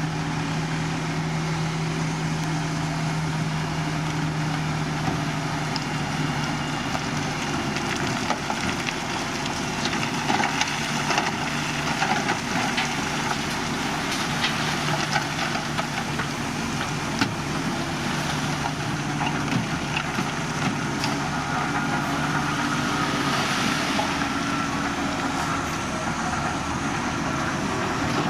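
Diesel engine of a heavy earthmoving machine running steadily, with a low, even hum and scattered clicks and knocks over it.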